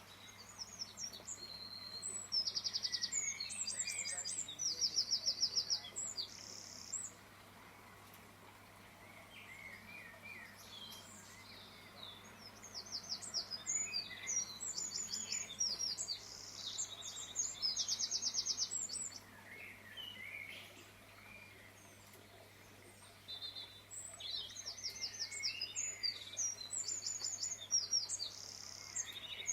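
Songbird singing: three long phrases of rapid high trills and chirps, each lasting about six seconds, with quieter pauses between them.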